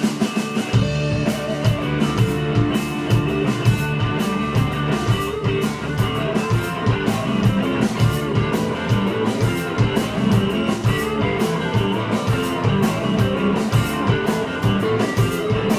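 Rock band playing live: electric guitar with drum kit and bass guitar, the drums and bass coming in just under a second in under a steady beat.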